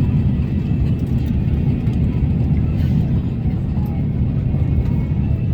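Aircraft cabin noise in flight: a steady low rumble of engines and airflow heard from inside the plane.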